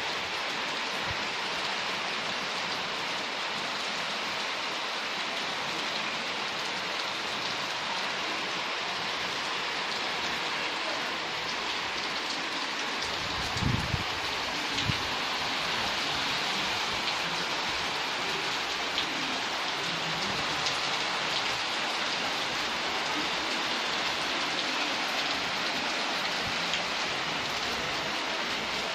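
Heavy rain falling steadily, a dense even hiss of drops. Two short dull thumps come about halfway through.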